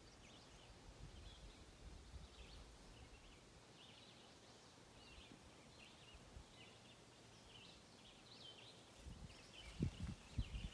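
Faint garden ambience of small birds chirping, in short scattered calls. A few low thumps come near the end.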